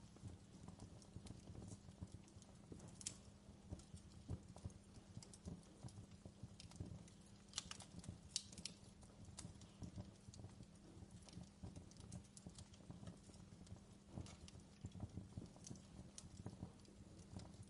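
Faint wood fire crackling in a fireplace: irregular sharp pops and snaps over a steady low rumble, with a brief flurry of louder pops in the middle.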